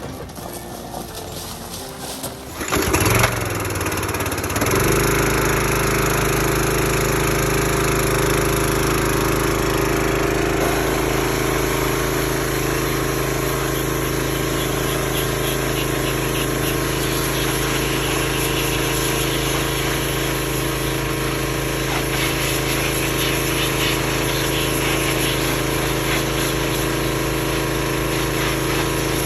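An engine cranks and starts about three seconds in, then runs steadily at a constant speed.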